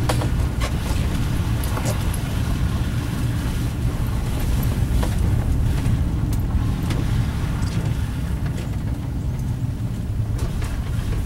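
Car driving, heard from inside the cabin: a steady low engine and road rumble with a few scattered light clicks.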